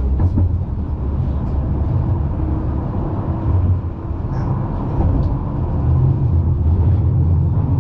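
Tram running, heard from inside the car: a steady low rumble of motors and wheels on the rails, with a few faint clicks and rattles.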